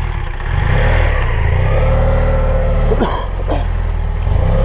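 Motorcycle engine idling steadily, a low continuous drone.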